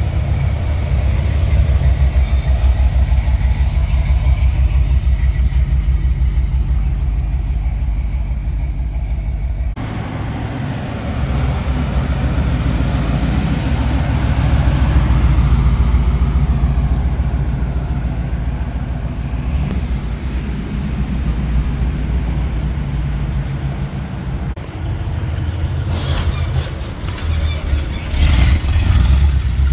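Loud, deep engine rumble with a fast, pulsing exhaust beat from vehicles on the cruise route. The sound breaks off abruptly about a third of the way in, then builds again.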